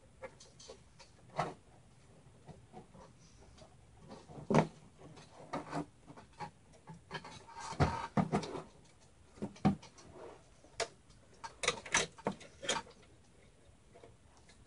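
Irregular clicks, taps and rustles of cables and parts being handled inside a small computer case, with louder knocks about four and a half seconds in and around eight seconds, and a quick run of clicks near the end.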